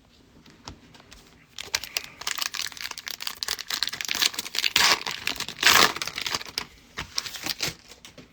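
Foil trading-card pack wrapper being torn open and crinkled by hand, a dense crackling that starts about a second and a half in, with two louder rips or crumples around the middle.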